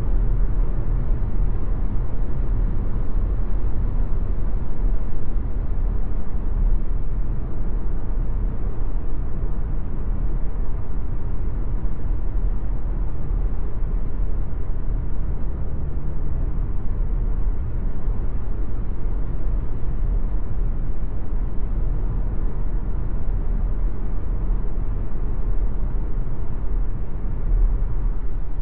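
Steady low driving rumble of an MG ZS Hybrid+ on the move.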